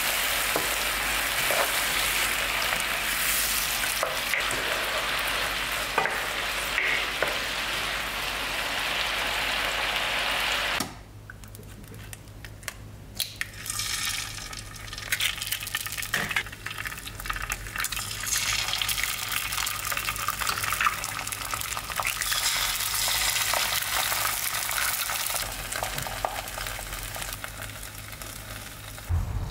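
Onion and mushroom sauce sizzling and bubbling in a frying pan. About eleven seconds in it cuts off sharply to a quieter scene: a few clicks as eggs are cracked into a compartment egg pan, then the eggs frying with a crackling sizzle.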